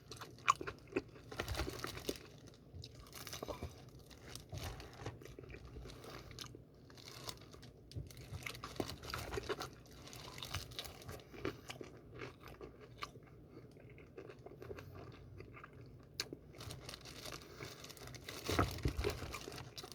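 Close-up crunching and chewing of crispy fried chicken: irregular crackly bites and chewing, a little louder about a second in and again near the end.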